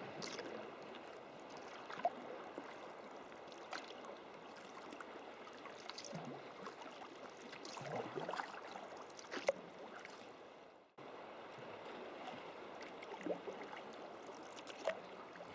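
Sea kayak paddling on calm water: soft, irregular splashes and drips from the paddle blades every second or two over a low wash of water along the hull. The sound fades and drops out briefly about two-thirds of the way through, then resumes.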